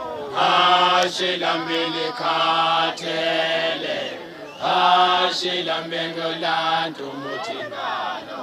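A vocal group singing a cappella in close harmony, holding chords over a low bass note in two phrases with a short break about four seconds in. Near the end, higher voices slide up and down.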